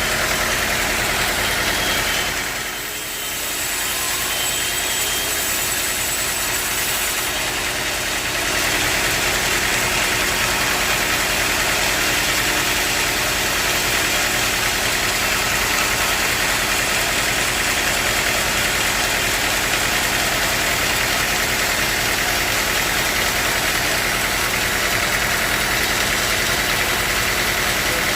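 Sawmill machinery running steadily, a continuous mechanical drone with a few steady tones through it, dipping briefly in level about three seconds in.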